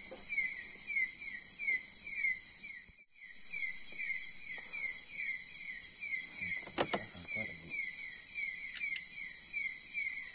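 Night insect chorus: a steady, layered high-pitched buzz with a short falling chirp repeating about twice a second. The sound drops out briefly about three seconds in, and a few faint clicks come in the second half.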